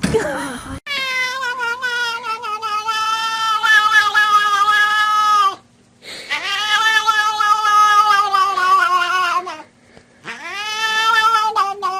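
A cat yowling in long drawn-out calls: two calls of several seconds each, sliding slightly down in pitch, and a third starting near the end. A short noisy burst comes just before the first call.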